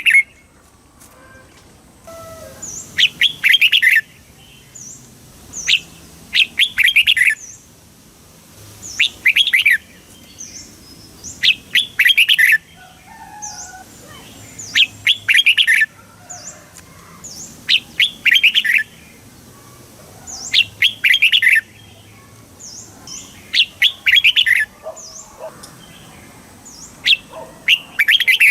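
Red-whiskered bulbul singing: loud, short warbled song phrases repeated about every three seconds, with faint high chirps between them.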